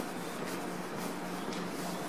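Steady hiss with a faint low hum from a Keio 9000 series electric train standing at the platform with its doors open.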